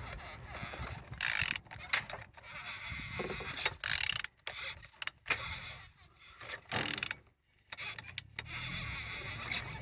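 PSA DV4TED 1.4 HDi diesel engine being turned over by hand with a tool: irregular mechanical clatter and scraping in several loud bursts with pauses between. It is a hand check that the engine turns freely and has compression, which it does.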